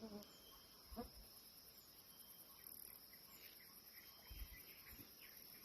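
Quiet outdoor ambience: a steady high insect drone with a few short, faint bird chirps.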